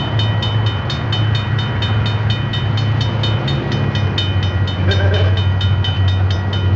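Electric model train running on its track: a steady motor hum with regular clicks from the rail joints, about four a second.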